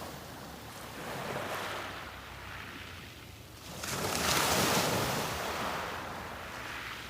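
Sea waves breaking and washing up the beach: a smaller surge about a second in, then a louder one about four seconds in that slowly fades.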